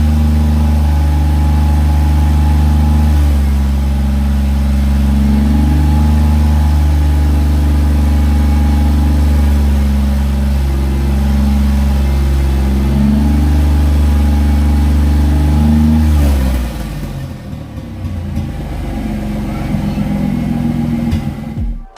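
Twin-turbo V6 Mustang engine running on its first start after a turbo swap, idling steadily with a few light throttle blips. About three-quarters of the way through, the engine note drops away as it shuts off, leaving a quieter, rougher noise.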